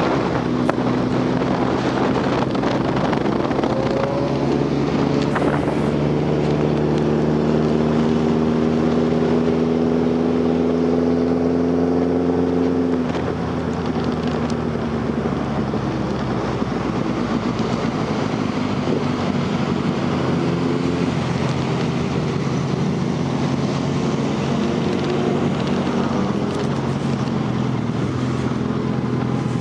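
Superbike engine running while riding. Its pitch climbs steadily for several seconds as it accelerates, drops about thirteen seconds in as the throttle is eased, and then runs at a steady pace.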